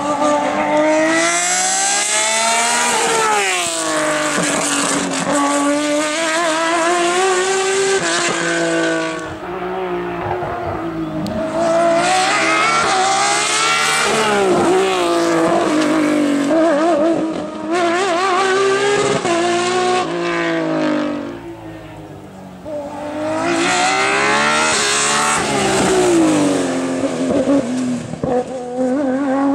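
Racing car engines revving hard, the pitch climbing and dropping again and again through gear changes, with tyre squeal. The sound comes in three loud passes, with brief lulls about ten seconds in and just after twenty seconds.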